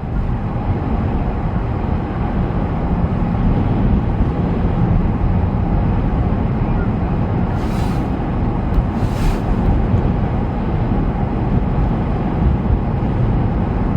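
A vehicle driving on a snowy road: steady rumble of road and engine noise, heavy at the low end, with two brief hisses about 8 and 9 seconds in.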